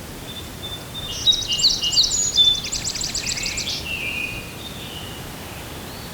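A songbird singing: a quick run of high, rapidly repeated chirping notes starting about a second in and lasting about two seconds, then a few fainter notes, over a steady outdoor background hiss.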